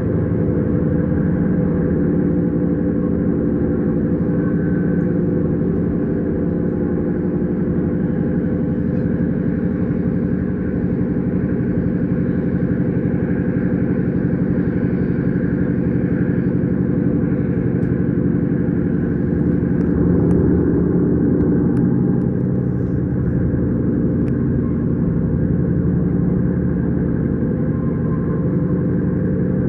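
S-Bahn electric train under way, heard from inside: a steady low running and rolling rumble that swells slightly about twenty seconds in, with a few faint ticks.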